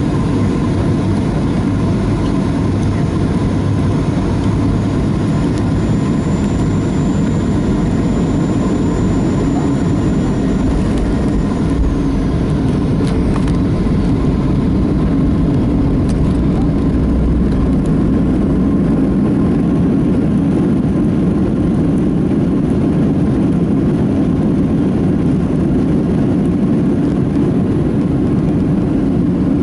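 Steady engine and airflow noise inside the cabin of a Boeing 737-400 with CFM56 engines, heard from a forward window seat. A faint high whine comes in about five seconds in and fades out near the middle.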